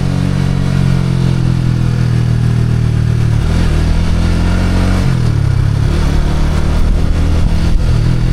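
Motorcycle engine running steadily while riding. Its note drops for a couple of seconds about halfway through, then rises again.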